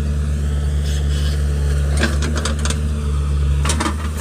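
Heavy diesel engine running steadily at a low, even pitch, with a run of sharp clattering knocks about halfway through and again near the end.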